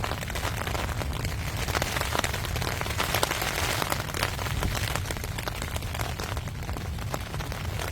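Rain falling steadily, a dense patter of countless sharp drop hits, over a low rumble of wind.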